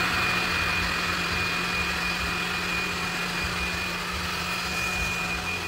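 ILife robot vacuum cleaner running while it vacuums and mops, a steady whir with a thin high whine and a low hum, easing slightly in level.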